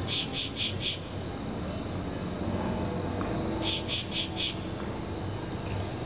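Cricket-like insect chirping: two chirps about three and a half seconds apart, each made of four quick high pulses, over a faint low hum.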